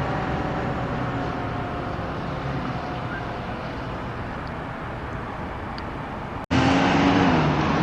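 Fire apparatus driving off, its diesel engine and road noise slowly fading. After an abrupt cut about six and a half seconds in, a louder truck takes over, with a low tone that drops in pitch near the end.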